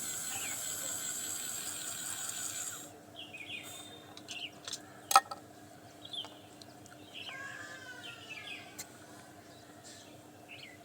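A small DC gear motor whines steadily, then cuts off suddenly about three seconds in. Faint bird chirps and a single sharp click follow.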